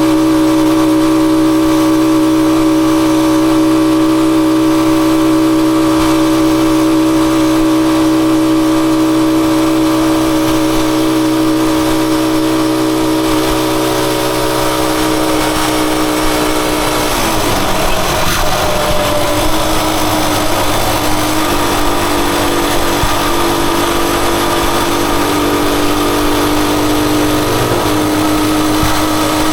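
Rusi Chariot 175 motorcycle engine running at a steady speed. About 17 seconds in, its pitch dips and wavers for a few seconds, then settles slightly lower.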